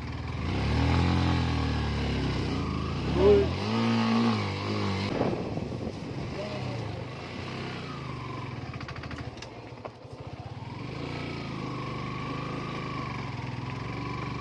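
Motorcycle engine running on the move, its pitch rising and falling over the first few seconds, then settling to a steadier, lower note.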